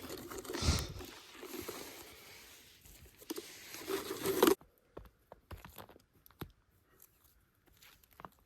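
Rustling and crunching of stiff, frozen boots and clothing being handled and pulled on. About four and a half seconds in, the noise cuts off suddenly, leaving only faint, scattered clicks and crinkles.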